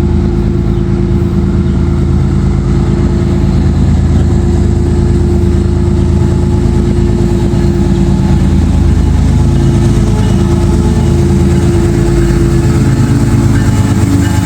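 Diesel-electric freight locomotive running loud and steady as it passes at close range, leading an intermodal double-stack train.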